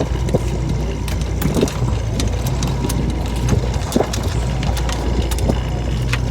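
A boat's engine running steadily with a low hum, with scattered light clicks and knocks on board.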